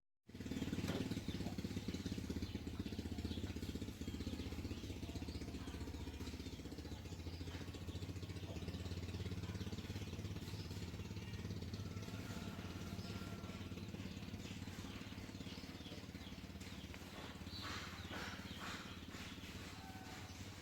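A steady low mechanical hum like an engine running, with faint scattered ticks over it.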